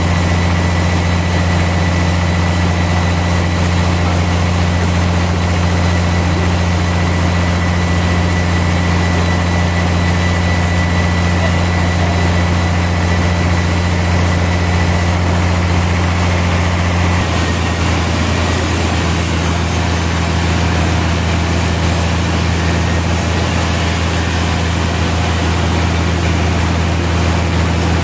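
Sawmill machinery running with a loud, steady, low drone and a thin high whine. About two-thirds of the way through, the drone shifts and the sound turns harsher.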